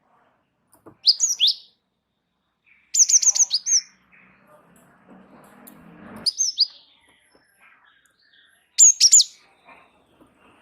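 Gelatik wingko songbird singing in vigorous 'gacor' style: four short bursts of sharp, high chirps and quick sweeping whistled notes, each lasting under a second, separated by pauses of one to three seconds.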